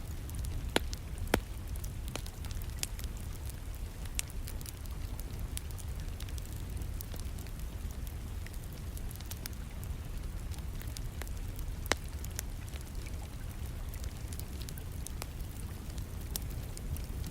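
Wood fire crackling in a fireplace, with scattered sharp pops, two loud ones in the first second and a half and another around twelve seconds in, over a steady low rumble of rain.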